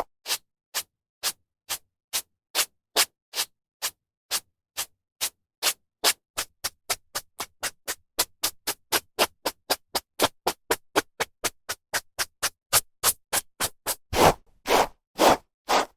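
Hairbrush stroking through hair: a steady series of short swishes with silence between. The strokes quicken in the middle, then become longer and louder near the end.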